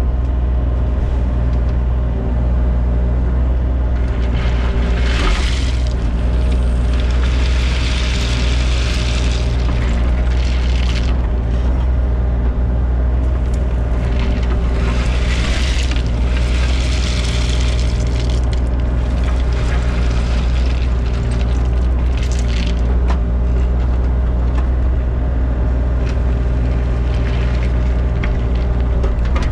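Mini excavator's diesel engine running steadily under load, with several bursts of louder scraping and rattling noise a few seconds long as the bucket works crushed stone.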